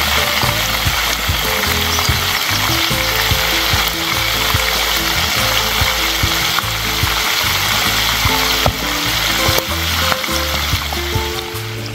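Sliced potatoes deep-frying in hot oil: a steady sizzle with scattered small pops, with background music underneath.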